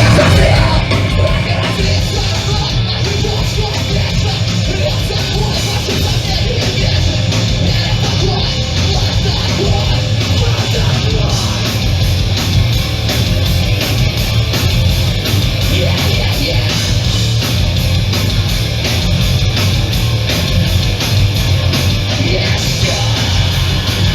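Live hardcore punk band playing loud, distorted guitar-driven music with bass and drums.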